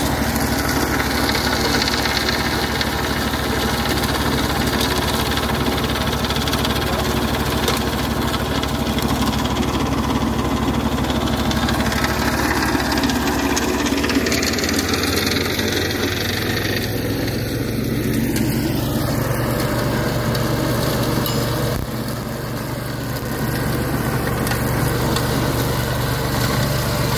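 An engine running steadily, its note stepping up in pitch about halfway through.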